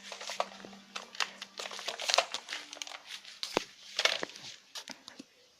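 Irregular sharp clicks and crinkling rustle of close handling, with a few louder knocks.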